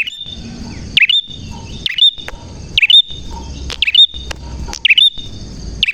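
Prinia (prenjak) singing a loud, sharp call repeated about once a second, each a quick downward sweep followed by a short high note.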